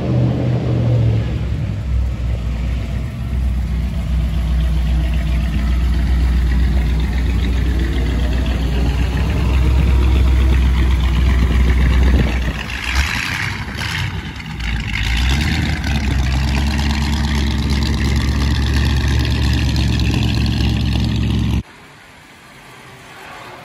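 Engine of a 1940s Ford running with a steady, deep low hum as the car rolls slowly past close by. The sound cuts off abruptly near the end, leaving quieter street noise.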